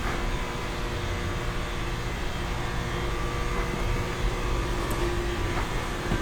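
Steady background mechanical hum: a constant low drone with a faint, unchanging tone running through it.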